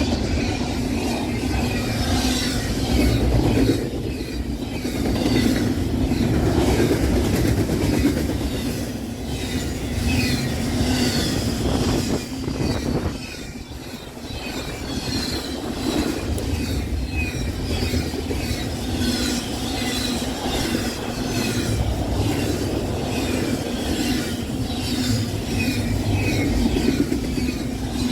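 Freight train rolling past at speed: a continuous rumble of steel wheels on rail, with clattering over the rail joints and faint metallic squealing from the wheels.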